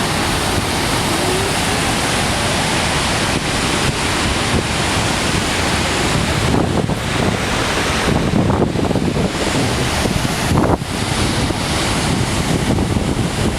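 Niagara Falls: the steady, loud roar of the falling water, with wind buffeting the microphone at times, most strongly in the middle.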